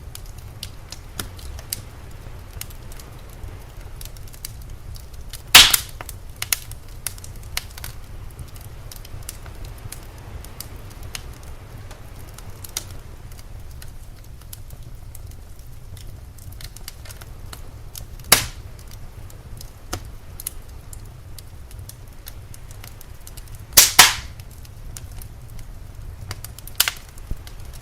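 Fire crackling with many small ticks and a few loud sharp pops, about five seconds in, about eighteen seconds in, and twice in quick succession near the end, over a steady low rumble.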